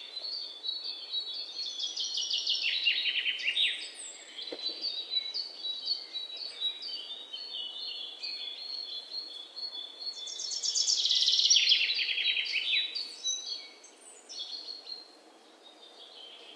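Small birds chirping and singing in rapid trills and falling runs of high notes, several voices overlapping, loudest about two-thirds of the way through and fading near the end.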